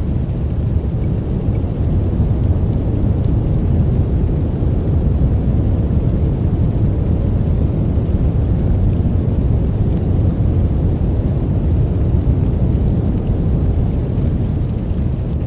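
Steady sleep-aid noise track, deep and dark, with its weight in the bass and little hiss up top, running evenly without breaks or changes.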